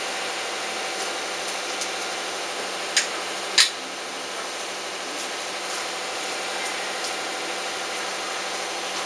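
A steady hum with two sharp knocks about half a second apart, about a third of the way in; the second knock is louder.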